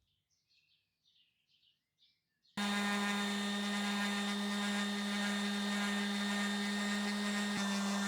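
Faint chirps, then about two and a half seconds in an electric power tool starts suddenly at full level and runs at a steady speed, with a strong even hum.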